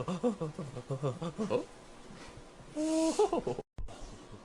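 An animal's voice: a run of wavering, voice-like calls, then after a pause one short, steady, pitched call with a hiss over it, cut off suddenly.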